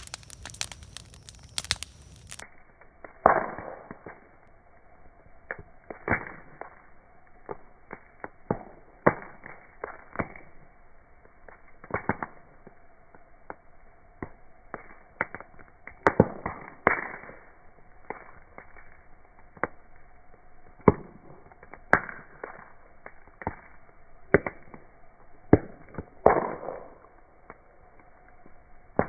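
Campfire wood crackling and popping in irregular sharp cracks, a few louder snaps among many small ones. From about two seconds in the sound turns dull and lowered, slowed down with the slow-motion picture.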